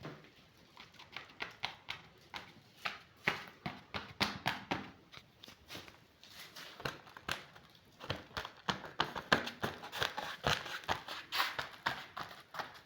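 Irregular light knocks and clicks in a small room, several a second, with louder clusters about a third of the way in and again toward the end.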